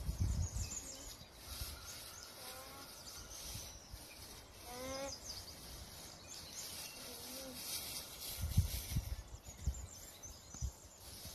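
Outdoor ambience: a few short rising bird calls, with low rumbling gusts of wind on the microphone at the start and again near the end, the later gust the loudest.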